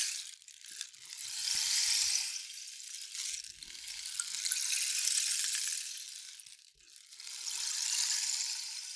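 Rain stick tilted back and forth, its pellets trickling down through the tube in a fine rain-like rattle that swells and fades three times.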